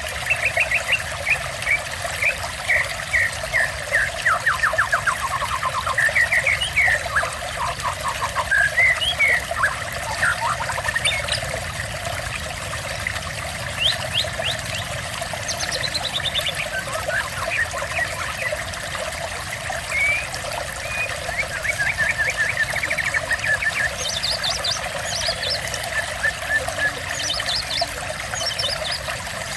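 Steady trickling water, with a songbird's rapid trills, chirps and whistles coming in repeated short phrases over it.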